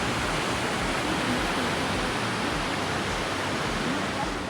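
Rushing river water: a steady, even rush of fast-flowing mountain river, as from the Parvati river.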